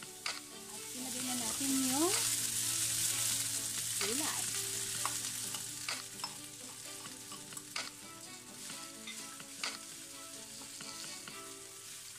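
Rice frying and sizzling in a nonstick wok while a plastic spatula stirs it, with scattered clicks and scrapes of the spatula against the pan. The sizzle is loudest over the first five seconds, then settles lower.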